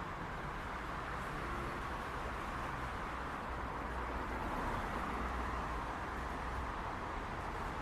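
Steady hum of city traffic: a continuous wash of tyre and engine noise from passing cars, with a low rumble underneath and no distinct horns or single events.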